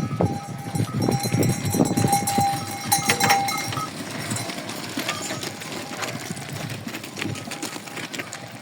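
Goats and sheep of a herded flock at milking time, with scattered bleats and other animal noise; one held call about one and a half to three and a half seconds in.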